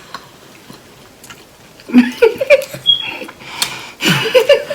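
Faint scattered clicks, then from about two seconds in a person's voice singing a snatch of a song in short loud bursts.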